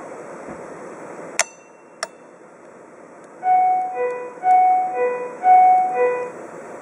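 Japanese emergency broadcast system sounding its attention chime, a two-note high-then-low tone played three times, which marks the start of a fire-detector alert announcement. Before it, over a steady hiss, come two sharp clicks about half a second apart.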